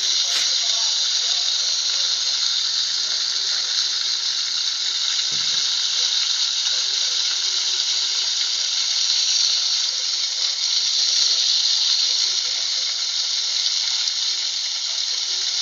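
Steady rush and splash of water from a fountain's jets.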